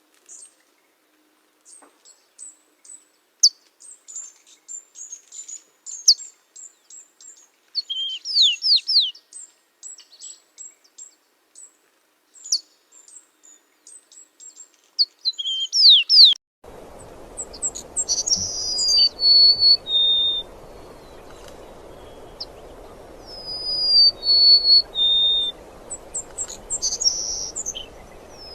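Small birds chirping: a rapid run of high, quick notes, many sweeping sharply downward. About two-thirds of the way through, a cut brings in a recording with a steady background hiss, in which a bird twice sings a whistled phrase that steps down in pitch, among other chirps.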